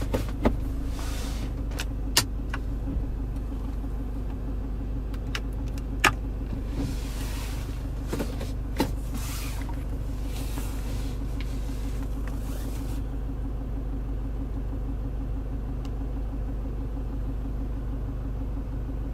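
Diesel engine idling steadily, heard from inside the cabin, with a few sharp clicks of console switches and buttons being pressed in the first half.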